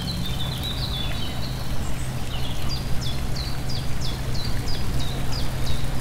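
Small birds chirping, with an even run of quick downward-sliding chirps, about three a second, in the second half. A steady low hum of background noise runs underneath.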